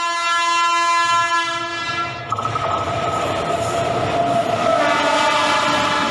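Train horn sounding one long, loud blast whose tones change about two seconds in, over the rumble of a train on the rails.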